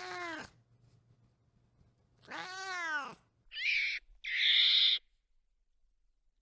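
A cat meowing twice, each meow a drawn-out call that rises and falls in pitch. Then come two louder, harsh, raspy calls from an animal.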